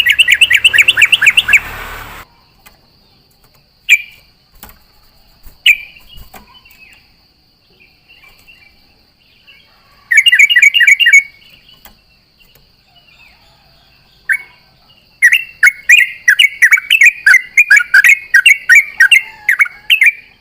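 Yellow-vented bulbul (trucukan) song: quick chattering runs of bubbly notes with single notes between. A short run near the start and another about halfway give way to a long rapid run in the last five seconds. A faint steady high whine lies behind it.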